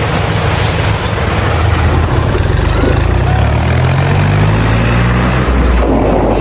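Engine running at a steady rumble, rising in pitch about two seconds in as if revving under load, then holding there until near the end.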